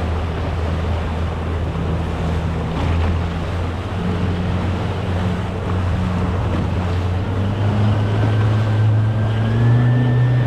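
Boat engine running steadily with wind and water noise, then speeding up, its pitch rising over the last few seconds.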